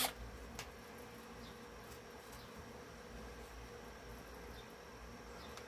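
An electric drill cuts off at the very start, leaving a faint steady buzzing hum with a few light clicks.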